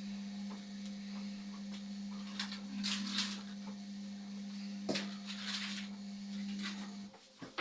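Indesit washing machine running with a steady low hum that cuts off abruptly about seven seconds in, with faint swishes and a click over it.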